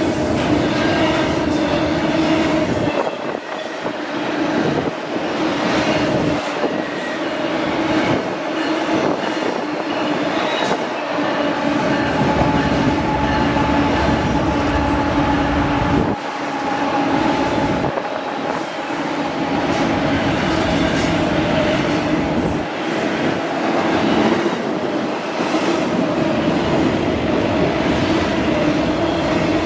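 Two double-stack container freight trains rolling past side by side: a dense, steady rumble and clatter of wheels on rail, with a steady squealing ring from the wheels. The diesel locomotives of the second train add a deeper rumble as they pass, ending abruptly about halfway through.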